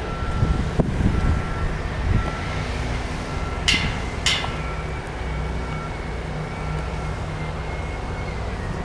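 Construction vehicle's engine running with its reversing alarm beeping about once a second. Two sharp bursts about half a second apart come in the middle, and a higher whine rises and then holds steady.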